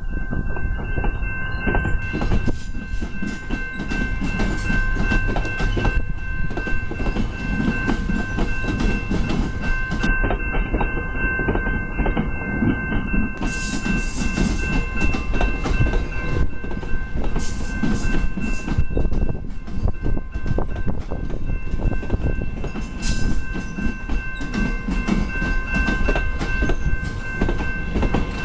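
Commuter train rolling past, its wheels clacking over the rail joints, with a steady high whine over the rumble.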